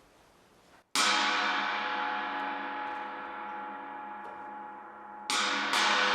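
Gong struck once, ringing with a long fading decay of many overtones, then struck twice more in quick succession near the end.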